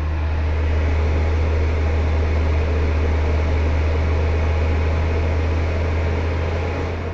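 Cooling fan of a 1500-watt pure sine wave inverter running steadily while it powers a space heater, with a strong steady low hum from the van's running engine underneath. The sound eases slightly near the end.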